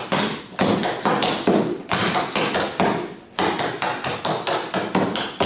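Clogging shoe taps striking a hard floor in a quick, syncopated run of flaps and hop-doubles, several strikes a second with a few brief pauses.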